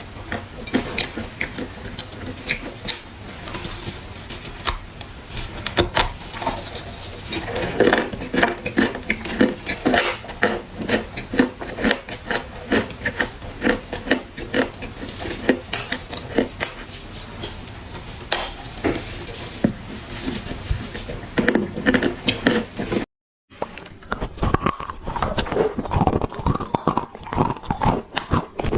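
Dry clay crunching: a dense, irregular run of sharp crackles and crunches, with a brief break about 23 seconds in.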